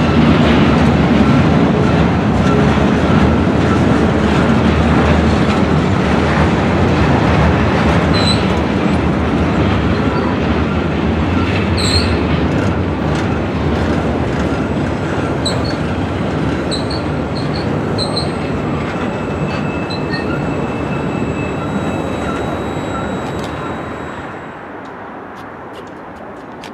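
Circus train's flatcars loaded with trailers rolling past, a steady rumble of wheels on rail with short high wheel squeals now and then. The rumble slowly gets quieter and drops off near the end.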